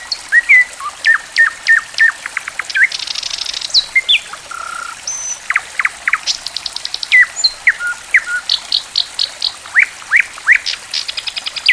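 Songbird singing busily: sharp chirps, rapid buzzy trills and quick upslurred whistles, over a steady trickle of running water.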